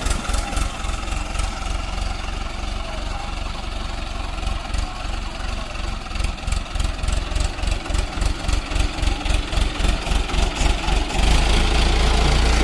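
Tractor diesel engine chugging at a slow, even beat, then growing louder and steadier near the end as it is revved up.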